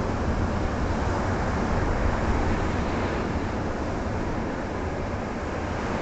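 Ocean surf breaking on the shore: a steady wash of noise, heaviest in the low end.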